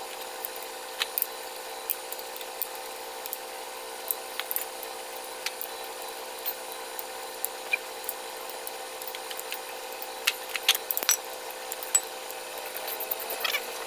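Wrenches and tools clicking and knocking sharply and irregularly on the metal of a Kubota M9000 tractor during disassembly, over a steady mechanical hum; the clicks come thicker near the end.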